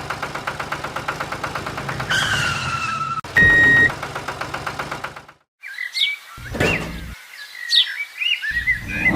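Small tractor engine chugging at a quick, even rhythm, with a short loud horn beep about three and a half seconds in. After a sudden cut a little past halfway, birds chirp, with two brief whooshes.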